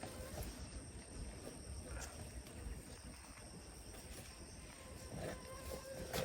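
Outdoor ambience with a steady high-pitched insect drone over a low rumble, and a few faint knocks, the loudest near the end.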